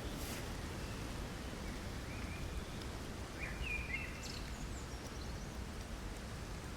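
Rain falling steadily on an umbrella, with a sharp tick at the start and a few short bird chirps in the middle.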